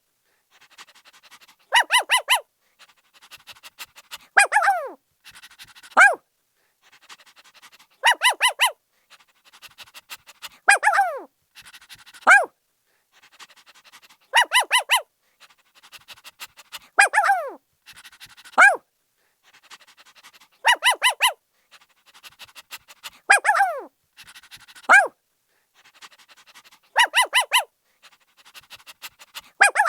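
Puppy barking in a repeating cycle about every six seconds: a quick run of four high yaps, a yelp that falls in pitch, then a single short bark, with soft panting in between.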